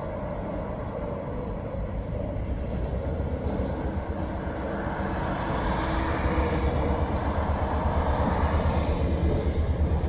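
Diesel freight train rumbling, growing steadily louder as it approaches, with a low throbbing beat building in the second half.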